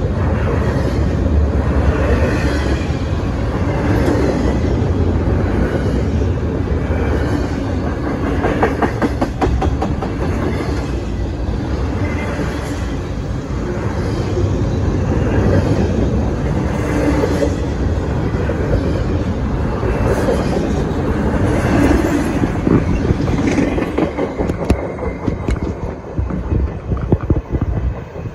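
Double-stack container well cars of a long freight train rolling past at close range: a steady rumble of steel wheels on rail, with runs of clacking as the wheels cross rail joints. The rumble eases and grows uneven near the end.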